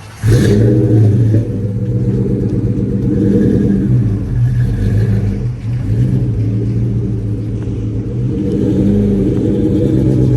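A car engine starts suddenly just after the start, loudest for the first second, then settles into a steady idle.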